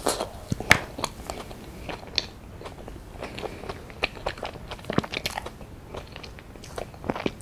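Close-miked eating sounds: biting into strawberry ice cream and chewing it, a run of small crunches and wet mouth clicks.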